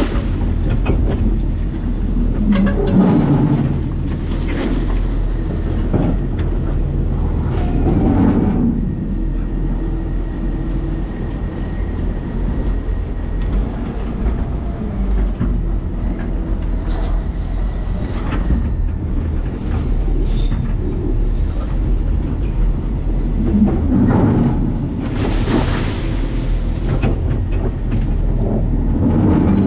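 New Way Sidewinder side-loading garbage truck running, heard from inside its hopper: a steady low rumble, with louder noisy surges about three seconds in, around eight seconds, and again from about 24 to 26 seconds.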